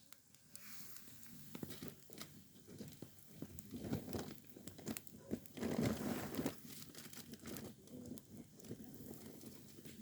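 Crinkly packaging being handled and crumpled, irregular rustling and crackling that grows louder around four and six seconds in.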